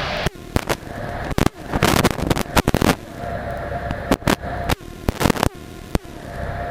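Cessna 172 engine droning in the cabin, broken again and again by sharp crackles and brief dropouts. A steady tone comes in about three seconds in.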